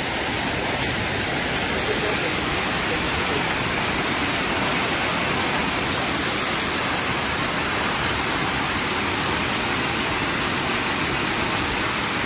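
Heavy rain pouring down in a dense, steady rush.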